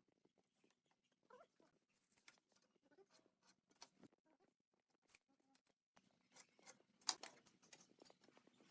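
Near silence with faint, scattered light taps and clicks, growing busier near the end.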